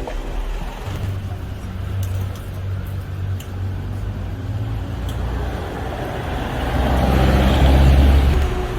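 Road traffic: a steady low engine rumble, with a vehicle passing closer and louder about seven to eight seconds in.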